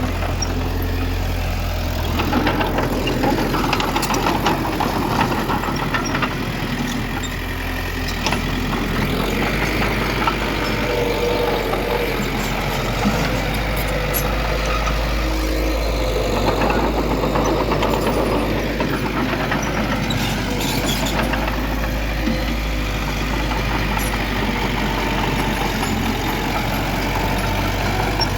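Heavy diesel earthmoving machinery, a bulldozer with dump trucks, running steadily with a low rumble, and a few short metallic clanks partway through.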